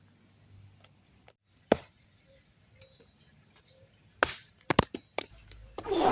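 A few separate sharp knocks and cracks: one isolated, then a quick cluster of several about four seconds in. Near the end they give way to a louder rushing noise.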